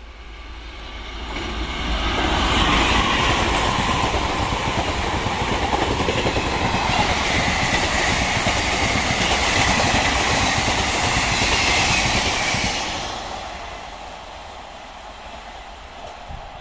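A train passing at speed, its wheels clattering over the rail joints in a fast rhythm. It builds up over the first couple of seconds, stays loud for about ten seconds, then fades away near the end.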